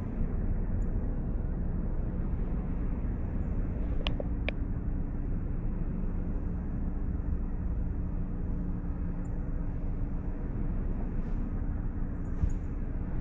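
Outdoor field ambience picked up by a cat's collar camera: a steady low rumble, with two short high chirps about four seconds in.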